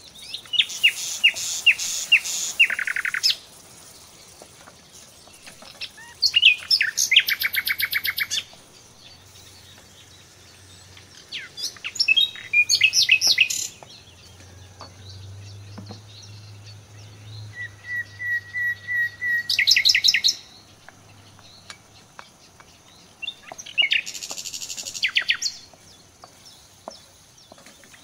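A songbird singing in five separate phrases of two to three seconds each, with pauses between them. Each phrase is made of rapid trills and repeated notes, and one phrase opens with a string of even notes before breaking into a trill.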